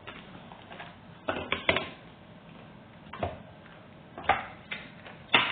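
Tarot cards being handled on a table: about six sharp taps and clicks at uneven intervals, three close together in the first two seconds and the loudest near the end.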